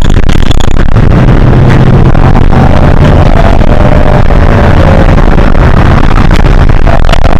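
Hino HS8JRVL-UTF city bus's diesel engine running loudly, heard from inside the bus. Its low drone strengthens about a second in as the bus pulls under power, and a faint whine drifts slightly down in pitch midway.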